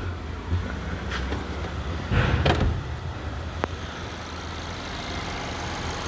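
Vehicle engine idling steadily on test, with a brief louder burst of noise about two seconds in and a single sharp click a little after.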